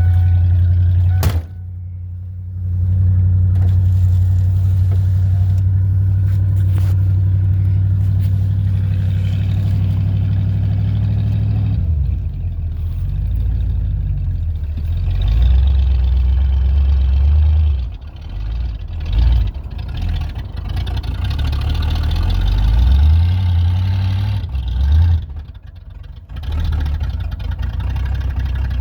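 A 1988 Ford F-150's cold engine running, sagging briefly about a second in, then holding a steady note for about ten seconds. After that the note rises and falls repeatedly as the throttle changes while the two-wheel-drive truck drives through deep snow.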